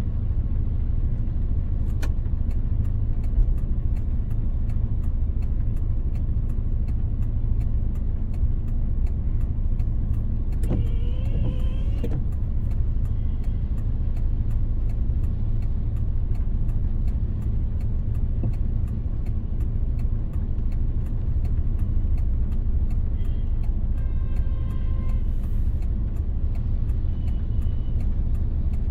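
Car driving on rain-wet city roads: steady low road and engine rumble with a light, even ticking. About eleven seconds in a short pitched tone sounds, and a fainter one near the end.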